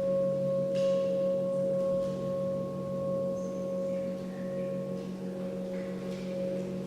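A sustained ringing drone that holds one steady pitch with a slight waver, over a lower steady hum. A few faint, short high chirps sound above it.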